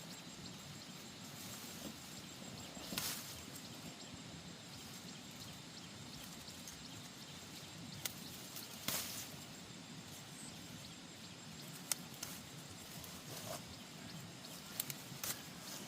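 Faint steady outdoor background noise, with a handful of short sharp knocks scattered through it.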